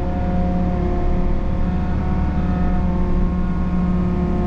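Takeuchi excavator's diesel engine and hydraulics running steadily under load while the bucket digs, with a constant whine over the engine rumble.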